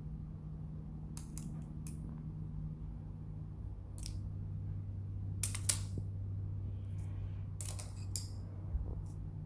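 Scattered small clicks and snips from handling objects up close, with a louder pair about halfway through, over a steady low hum.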